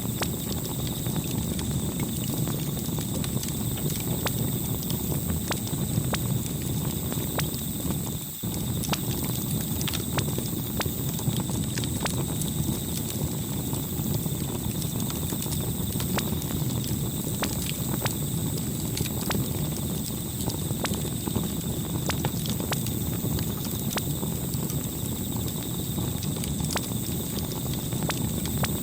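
Campfire crackling: irregular sharp pops and snaps over a steady low rumble of the burning fire, dipping briefly about eight seconds in.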